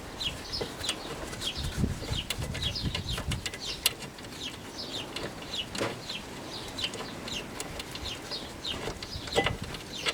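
Birds chirping again and again in short, high, falling notes, with scattered sharp clicks and knocks.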